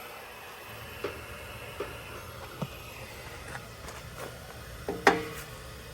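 Scattered metallic clicks and knocks of hose fittings and valve-core tools being handled at a refrigerant service valve, with one louder clack about five seconds in, over a steady low background noise.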